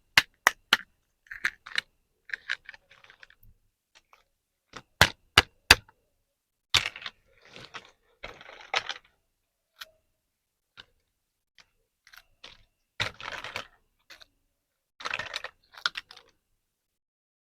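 Plastic toy parts and packaging being handled: sharp clicks, twice in quick runs of three, between short bursts of crinkling plastic rustle.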